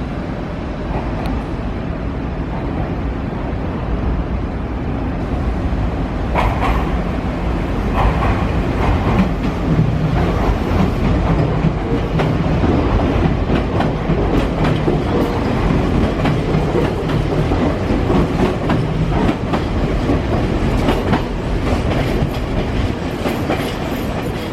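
Nankai electric train running through the station, its wheels clicking over rail joints, with a low steady hum under the rumble. The sound grows louder about four seconds in.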